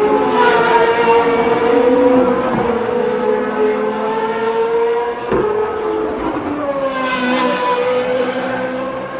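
GP2 race cars' 4-litre Mecachrome V8 engines running at high revs on track, several cars heard at once. Two cars pass close by, one about half a second in and one about seven seconds in, their engine notes falling in pitch as they go by.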